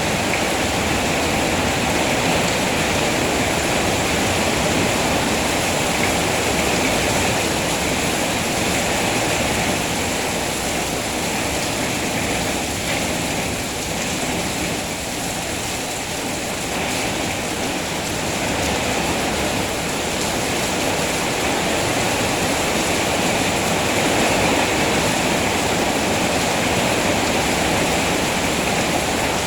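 Steady heavy rain falling, an even rushing hiss that eases a little about halfway through and then builds back.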